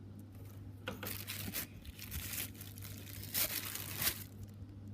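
Sticky slime being handled and pushed into an overflowing pot, giving two spells of crinkly, sticky handling noise, about a second in and again past three seconds.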